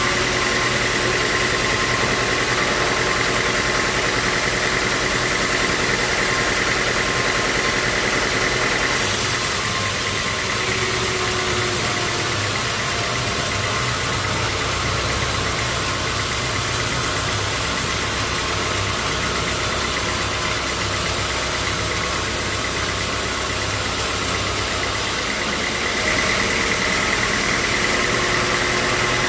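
Sawmill machinery running steadily, with a constant high whine over a motor's drone. About a third of the way in the sound thickens, with a deeper hum and more hiss, and it eases back near the end.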